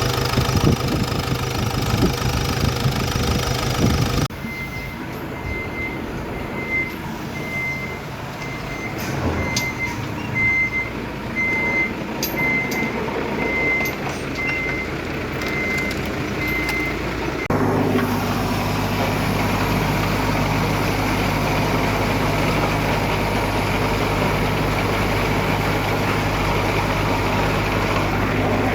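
Diesel engines of earthmoving machinery running. Through the middle stretch a reversing alarm beeps steadily, about once a second, over quieter engine noise. Near the end a low, steady engine hum takes over.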